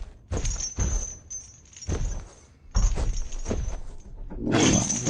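Film sound effects: a run of separate thuds and knocks, then a loud rushing noise that swells up near the end.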